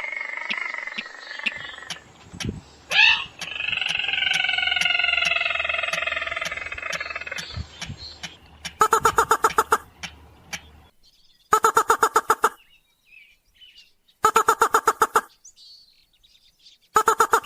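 Rail and crake lure calls. First come long, drawn-out calls with faint regular ticks behind them. From about nine seconds in come four bursts of rapid staccato notes, each about a second long and 2 to 3 seconds apart.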